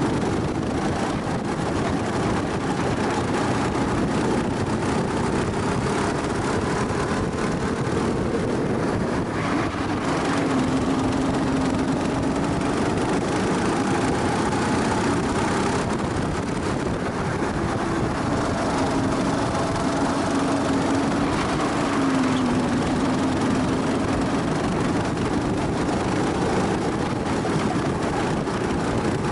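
Rental go-kart engine heard onboard while lapping a track at speed, its pitch rising and falling every few seconds as the kart accelerates and slows, over a steady rush of noise.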